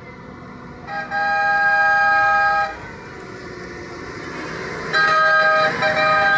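Vehicle horn sounding: one long blast, then two shorter blasts close together near the end.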